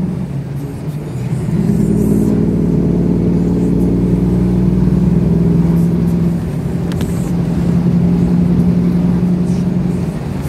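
Cummins diesel engine in a big-rig truck running steadily under load, its hum dropping off briefly about a second in and again around six seconds before picking back up.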